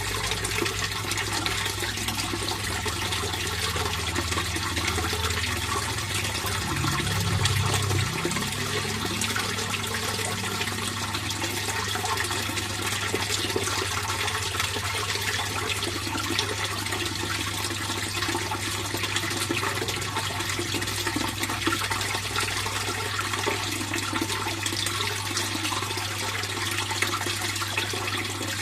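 Fish pond water flowing steadily, with a steady low hum underneath and a brief low rumble about seven seconds in.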